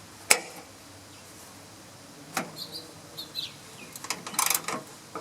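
Wrench work on the riding mower's chassis nuts: a few isolated sharp metal clicks, then a quick run of ratchet clicking near the end.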